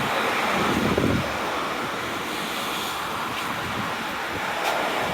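Steady rush of sea waves at high tide mixed with wind buffeting the microphone, a little fuller and lower for a moment about a second in.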